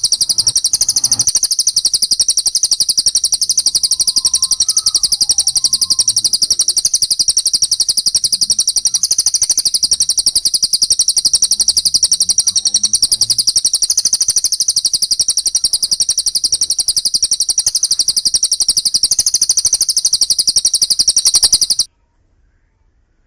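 Loud, continuous, very rapid high-pitched songbird chirping from a bird-training master recording of fighting-sparrow (gereja tarung) and long cililin calls. The chirping cuts off abruptly near the end.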